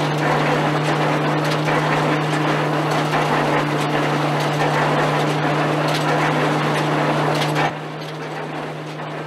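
Vintage threshing mill working, a steady drum hum under the clatter and rustle of its shakers and straw. Near the end the sound drops and becomes quieter.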